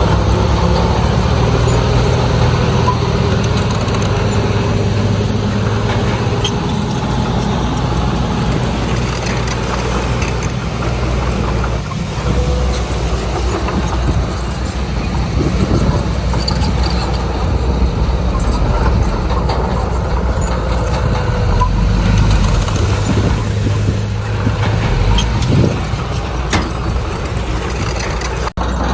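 Heavy diesel earthmoving machinery running steadily under work, a deep continuous engine drone.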